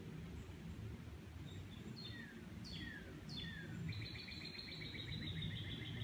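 A songbird singing: three clear down-slurred whistles, each falling steeply in pitch, then a rapid, even trill lasting about two seconds. Under it runs a steady low rumble of background noise.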